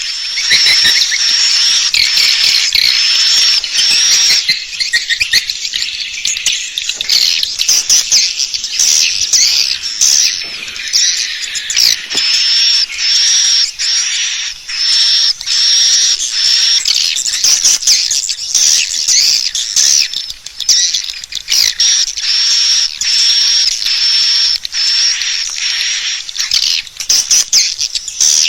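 Edible-nest swiftlet calls: a dense, continuous run of short high chirps repeating about twice a second. This is the 'suara panggil' lure call played in swiftlet houses to attract the birds to roost and nest.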